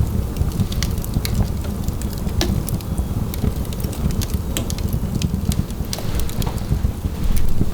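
A fire burning in a fireplace, crackling and popping in irregular sharp snaps over a steady low rumble of flame.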